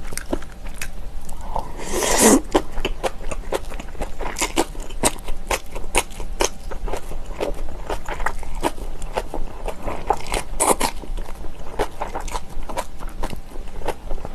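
Close-miked eating: wet chewing and crunching of kimchi, many irregular small clicks and crackles, with a louder crunch about two seconds in.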